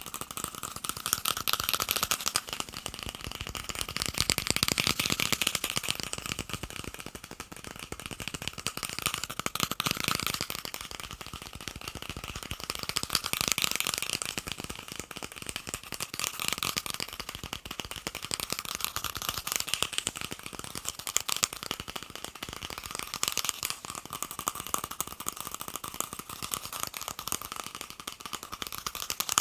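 Fast tapping on plastic cups: a dense, rapid patter of light, hollow clicks that swells and eases in waves every few seconds.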